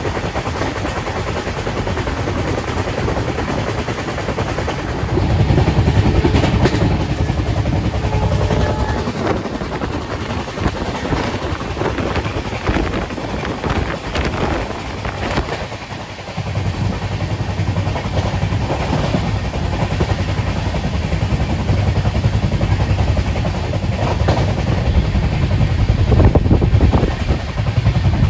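Moving passenger train: a steady low rumble with rapid clatter of wheels over the track, getting louder about five seconds in.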